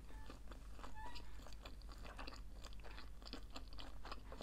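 Close-miked chewing of a mouthful of nori-wrapped sushi roll: many small, irregular wet clicks and crunches, several a second.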